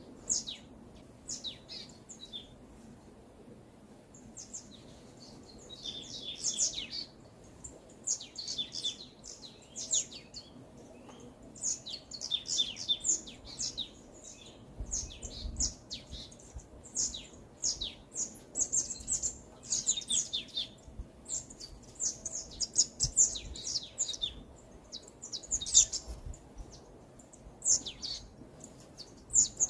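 Forest birdsong: several small birds chirping and singing in quick high notes and short trills, overlapping in busy bursts with brief gaps between them.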